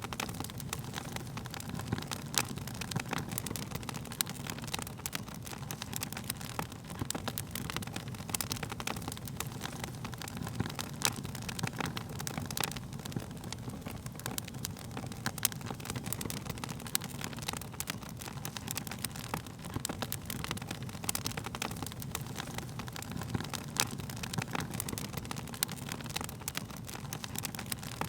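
Wood fire burning, with a steady low rumble of the flames and irregular sharp crackles and pops from the burning wood.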